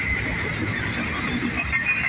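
Double-stack intermodal freight train rolling past, its steel wheels squealing with a wavering high pitch over the low rumble and clatter of the cars on the rails.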